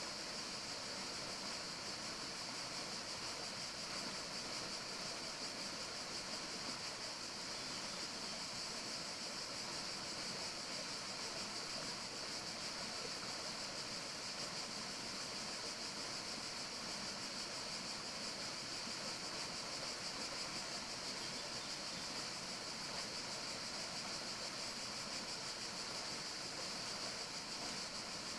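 Steady forest ambience: an even rushing hiss with most of its energy in one high band, and no distinct calls or events.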